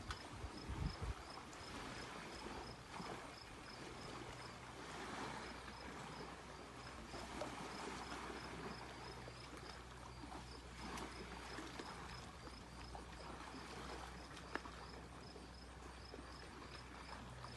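Small lake waves washing and lapping against the shore in uneven swells, with an insect chirping steadily about twice a second.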